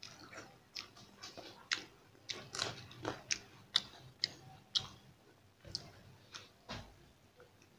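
A person chewing a mouthful of rice close to the microphone, with a run of sharp, wet smacking clicks, irregular, about two a second.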